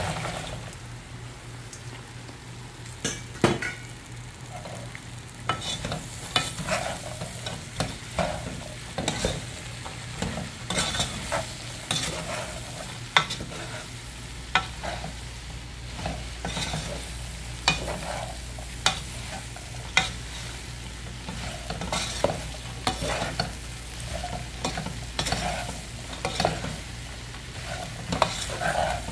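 Freshly washed, cut green beans sizzling as they fry in hot oil in a stone-coated pot, stirred with a wooden spoon that knocks against the pot about every second or so.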